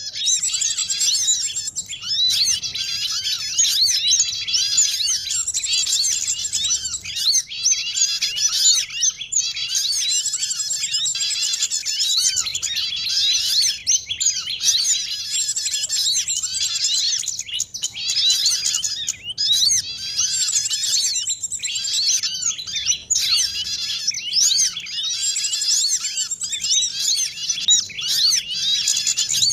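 A dense chorus of many small songbirds chirping and twittering at once, with rapid overlapping trills and high chips. This is a bird-lure recording that mixes the calls of small birds such as spiderhunters, white-eyes and prinias to draw wild birds in.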